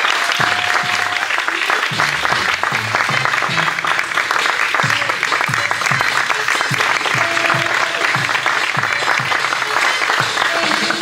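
Audience applauding steadily over the performance music, whose bass notes carry on underneath.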